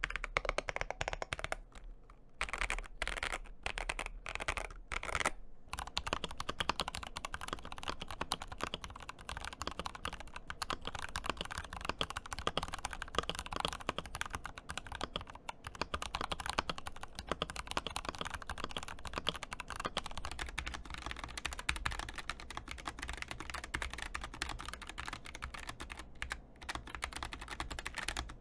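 Mechanical keyboard being typed on quickly and continuously, a dense stream of keystrokes with brief pauses about two seconds in, about five seconds in and near the end.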